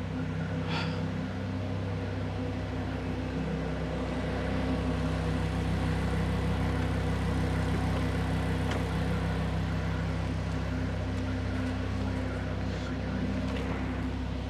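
Lamborghini Huracán LP610-4's 5.2-litre V10 idling steadily.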